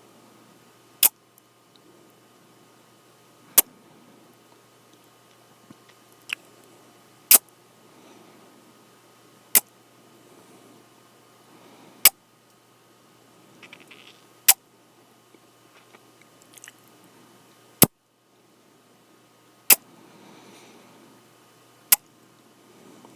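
Close-up kissing sounds into the microphone: sharp, loud lip smacks, about nine of them, one every two to three seconds, with soft mouth and breath noise between.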